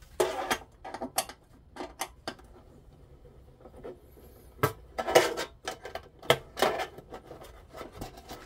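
Metal clinking, scraping and clattering in irregular bursts as the sheet-metal casing and parts of an electric hot-plate stove are handled and taken apart.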